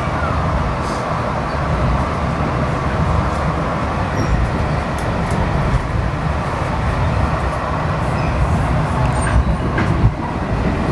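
Passenger train running at speed, heard from inside the car: a steady low rumble of wheels on rail, with a few faint ticks.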